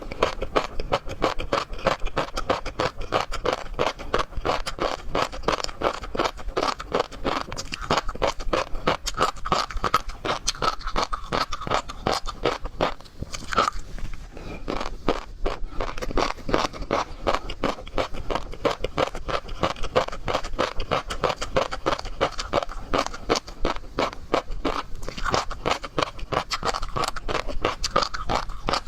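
Close-miked eating of seafood: continuous wet chewing and crunching, many small clicks and crackles a second, with a brief lull about halfway through.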